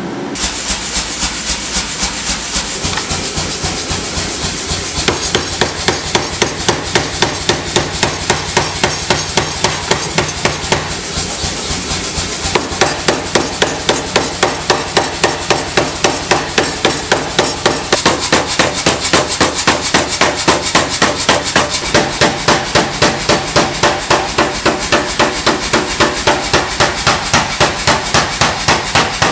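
Steady rapid hammer blows on hot steel, about three a second without a break, as a broad axe blade is drawn out wider and thinner on the anvil.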